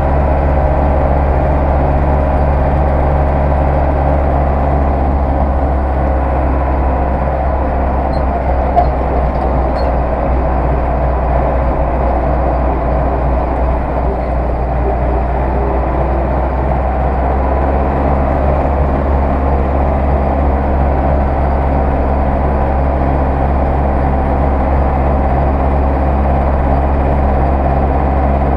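Zetor 6911 tractor's four-cylinder diesel engine running at a steady speed, with no revving, and a single short click about nine seconds in.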